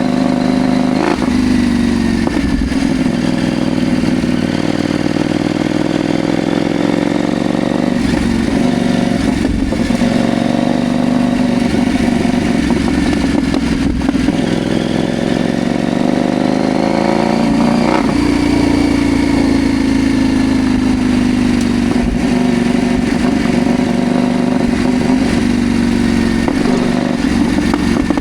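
CFMoto Ibex 800T motorcycle engine running on the move, its pitch rising and falling with the throttle, with sharp changes about a second in and again midway that fit gear changes.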